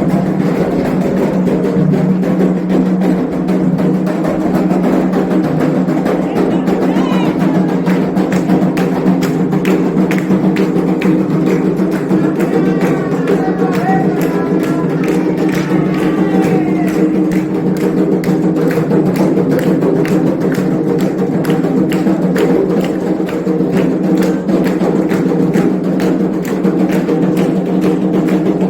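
Candomblé ritual music: hand drums and a clanking bell or wood-block beat keep a fast, steady rhythm, with voices singing over it that rise and fall for a few seconds around the middle.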